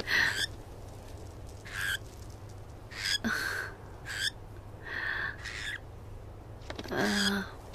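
An animated bird's short calls, about eight in quick succession, each lasting well under a second.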